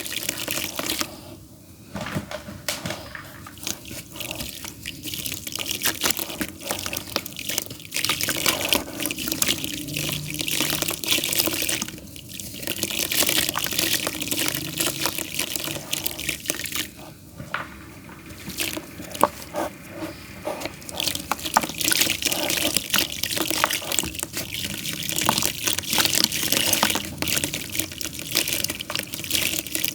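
Damp clay mud crumbling: a dense, continuous run of small wet crackles and falling bits, with a few brief lulls.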